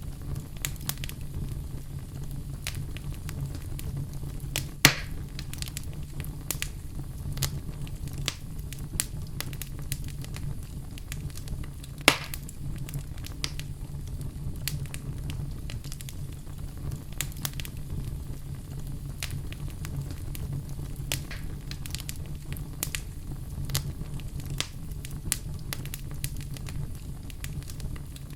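Fire burning in a fireplace: a steady low rumble with frequent crackles and snaps, and two louder pops about five and twelve seconds in.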